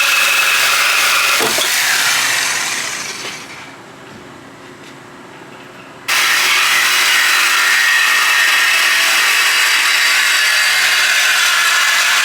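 Power tool cutting through exhaust pipe to take the mufflers off: it runs steadily, winds down with a falling pitch about three seconds in, and starts again abruptly about six seconds in.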